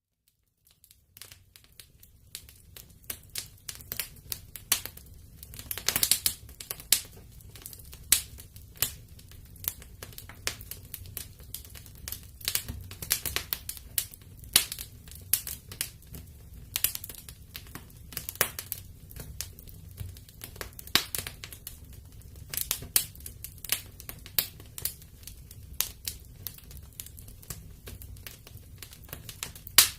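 Wood fire crackling in a fireplace: a steady stream of irregular sharp pops and snaps over a low rumble of the flames. The sound drops out for about a second at the very start, then fades back in.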